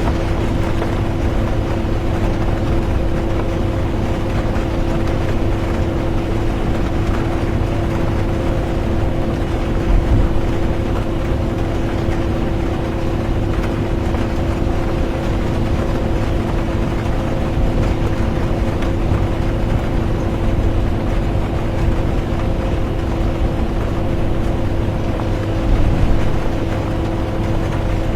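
Inside a moving bus: a steady engine drone with a constant hum and low road rumble, under an even hiss of rain and tyre noise. There are two small bumps, about ten seconds in and near the end.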